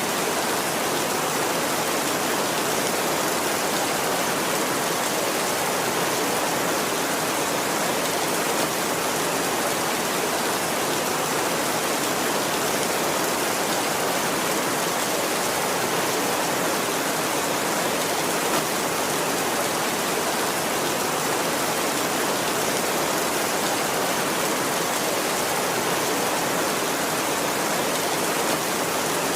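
Steady heavy rain falling, an even hiss without thunder or other events.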